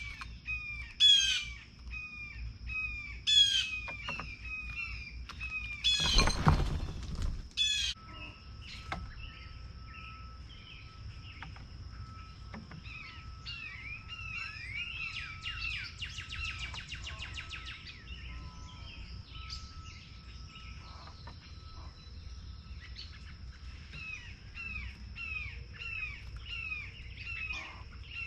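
Small birds at a feeder chirping and calling throughout, with several loud harsh calls in the first few seconds and a loud rushing burst about six seconds in. A buzzy trill comes about halfway through, over a steady high-pitched tone.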